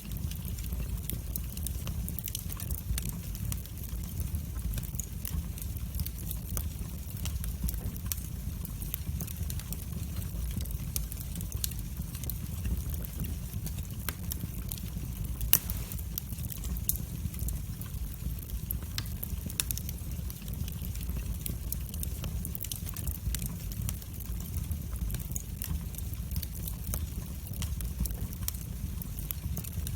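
Wood fire burning in a fireplace: a steady low rumble of the flames with frequent small crackles and pops, and one sharper, louder crack about halfway through.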